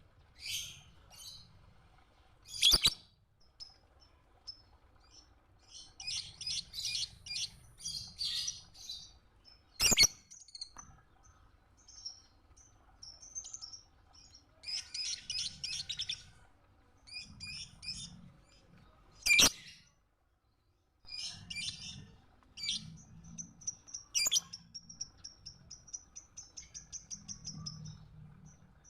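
Lovebird chirping in bursts of rapid high twittering, with a fast even trill near the end. Four loud sharp clicks cut through, and the sound drops out briefly about two-thirds of the way in.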